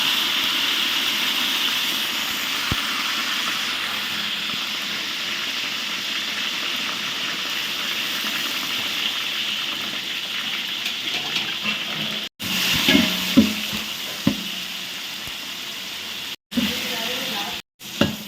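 Onions and curry leaves sizzling in hot oil: a loud, steady hiss that slowly eases off. From about two-thirds of the way in, stirring knocks and scrapes break in, with a few brief dropouts.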